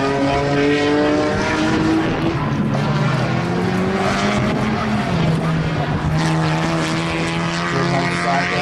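A race car's engine running hard under acceleration, its pitch climbing slowly, with a drop about five seconds in as it shifts up a gear.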